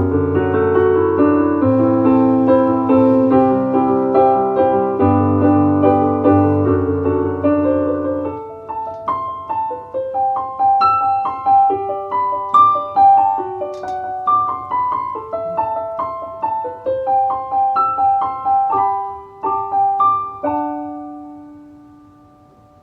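Piano music: slow full chords over a low bass for the first third, then the bass drops away to sparse single melody notes higher up. A last note rings out and fades away, closing the piece.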